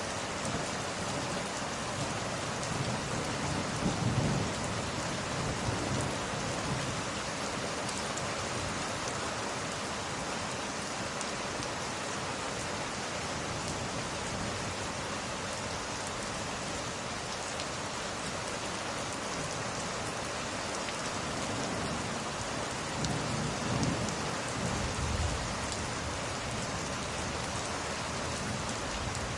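Steady rain hissing on a surface, with two low rolls of thunder, one about four seconds in and another a little over twenty seconds in.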